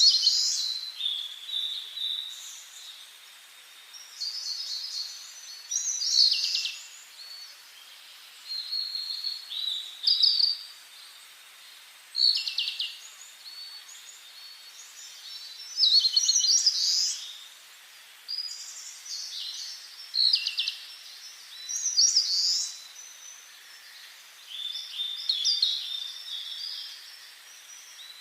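Songbirds singing in a forest: short, high-pitched song phrases, each about a second long, repeated every two to three seconds over a faint background hiss.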